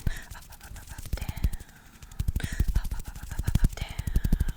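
Fast, aggressive ASMR hand sounds close to a sensitive microphone: dense rapid clicks and dull low thumps in bursts, busiest in the second half.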